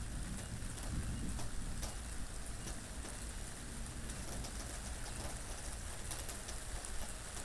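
Steady rain falling, with many small scattered drop taps over a low wind rumble.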